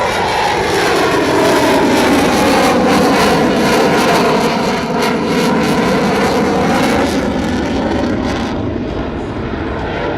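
F/A-18 fighter jet's twin jet engines roaring loudly as it passes, with the pitch of the roar sliding as it flies by.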